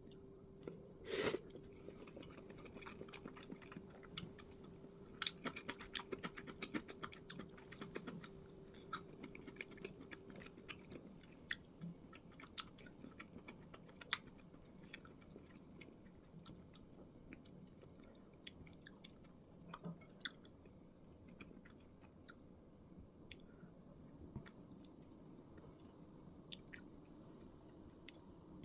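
A person chewing and eating food close to the microphone, with scattered small clicks and one louder knock about a second in. A faint steady hum runs under it and stops about eleven seconds in.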